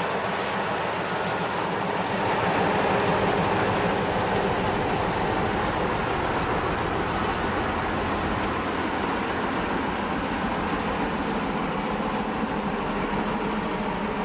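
TU7 narrow-gauge diesel locomotive under way: a steady engine drone mixed with wheel and rail noise, slightly louder a couple of seconds in.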